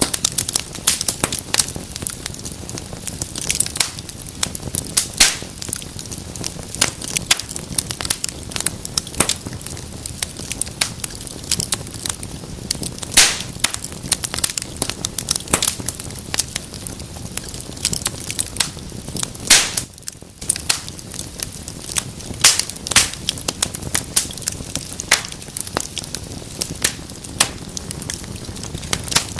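Wood fire in a fireplace crackling and popping, with sharp irregular snaps over a steady hiss of burning.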